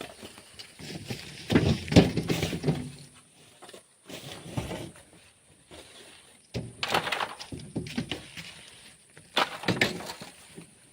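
Hand digging in sand and gravel: four bursts of scraping with sharp knocks, a couple of seconds apart, as a tool bites into the sand and loosens it.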